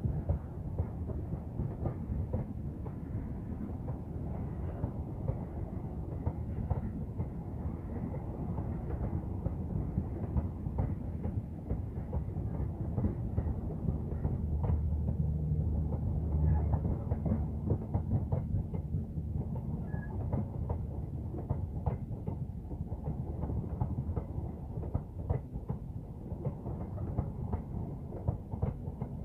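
Passenger train coaches rolling past close by: a steady low rumble of the wheels on the rails with many sharp clicks. It grows louder about halfway through, then eases back.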